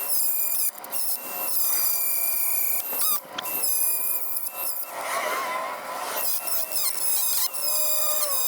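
Dremel-style rotary tool with a tungsten carbide bit at high speed, cutting into a weld. It makes a high-pitched whine whose pitch wavers as the bit loads up in the cut, and it breaks off briefly a few times.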